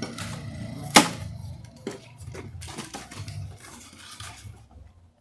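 Pieces of firewood knocking together as they are dropped onto a bonfire pile. There is one sharp knock about a second in, then a few lighter knocks.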